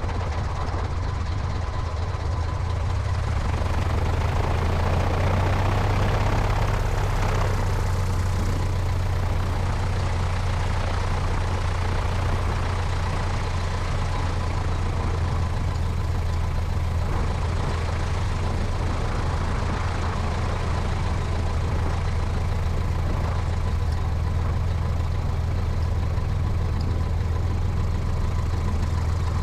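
Cessna 172's piston engine and propeller running steadily, a deep drone under a wash of wind noise from the wing-mounted camera; it swells slightly a few seconds in, then holds even.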